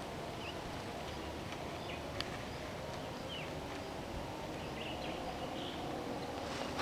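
Steady outdoor background noise with faint, short bird chirps scattered through it, and a single sharp click about two seconds in.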